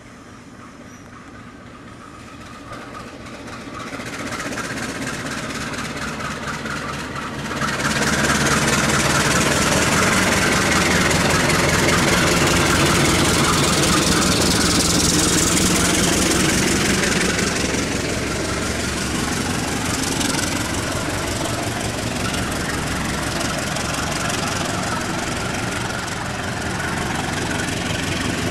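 Diesel locomotive engine growing louder as it comes close, jumping sharply about a third of the way in. It runs loudest for about ten seconds, then settles to a slightly lower, steady running sound.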